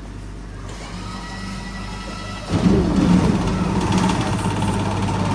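A motor running with a steady low hum that suddenly gets much louder about halfway through, then keeps running evenly.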